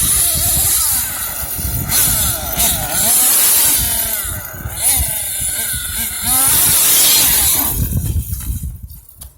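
Kyosho Mad Force nitro RC truck's KE25 two-stroke glow engine revving, its high buzzing pitch rising and falling again and again. It drops away about eight seconds in.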